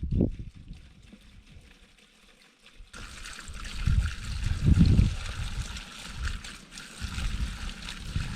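Running water of a stream or cascade, a steady rushing hiss that cuts in abruptly about three seconds in. Heavy low rumbles come over it, loudest around the middle.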